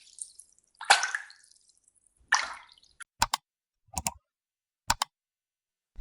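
Two splashes that each fade out over about half a second, followed by a few short, sharp plops or clicks in pairs, with silence between them.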